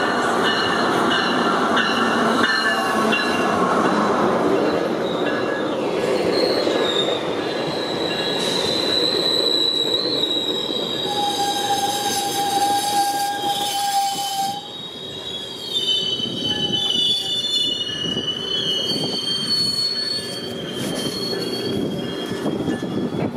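GO Transit diesel commuter train pulling into the platform. The locomotive rumbles past in the first few seconds, then the bilevel coaches roll by braking, with high steady wheel and brake squeals and one lower squeal held for about three seconds near the middle.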